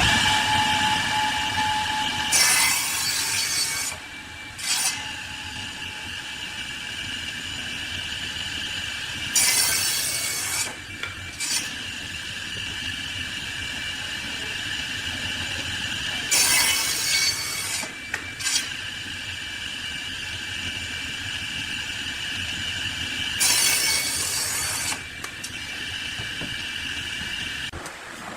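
A power woodworking machine runs steadily with a high hum. About every seven seconds, a louder rasping burst of a second or so marks wood being cut as it passes through.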